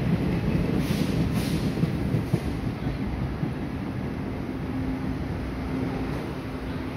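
Chu-Kuang Express passenger train, hauled by an E400-series electric locomotive, rolling into an underground station platform: a steady rumble of wheels on rail that eases off as the train slows.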